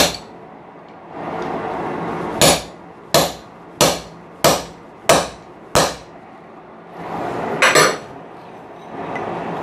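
Hand hammer striking a punch being driven into hot steel: a single blow, then a run of six steady blows at about one and a half a second, and near the end a ringing double strike.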